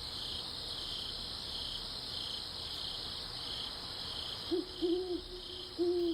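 Night-time ambience: crickets chirping in a steady, regular pulse, with an owl hooting about five short hoots in the second half.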